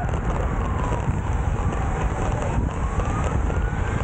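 A siren wailing slowly, its pitch falling over the first two seconds or so and rising again to a peak near the end, over heavy wind rumble on the microphone.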